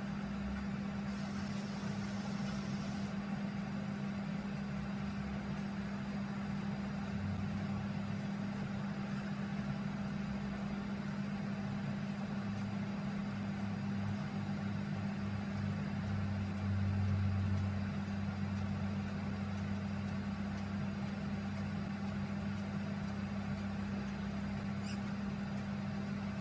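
A car driving, heard on dash-camera audio: steady road and engine noise over a constant low hum. It swells briefly about seventeen seconds in.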